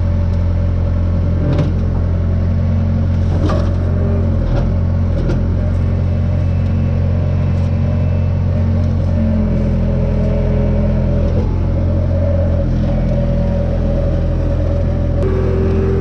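An engine running steadily at a constant speed, with a few light knocks and clatters over it.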